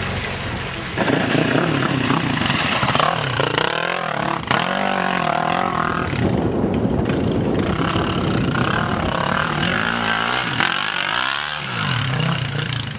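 Dirt bike engine running and revving up and down several times.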